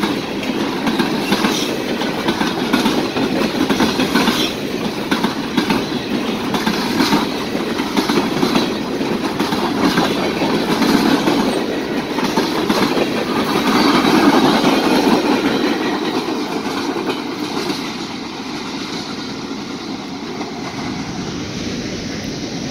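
Freight train boxcars rolling past close by, the wheels clicking steadily over the rail joints. The sound drops off over the last several seconds as the end of the train passes.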